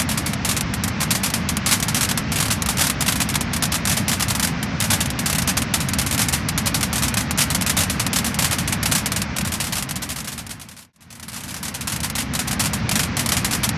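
Wood-burning fire crackling and popping in a dense, steady stream of small snaps. The sound fades out briefly about eleven seconds in, then fades back in.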